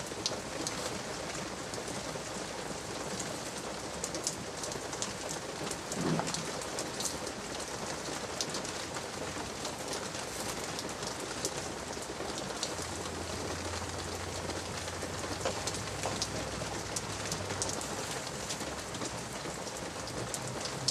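Light rain pattering and dripping steadily, with many small scattered drip ticks. A low steady hum joins in the second half.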